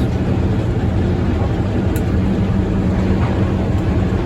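A sawmill's power unit running steadily, with an even low drone.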